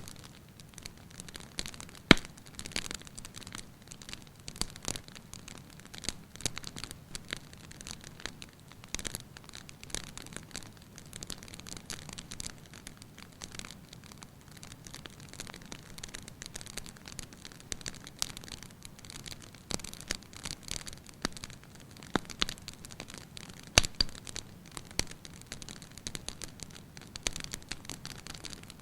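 Wood fire in a fireplace crackling, with a soft low rumble of flames under frequent sharp pops and snaps; the loudest pops come about two seconds in and again a little before the end.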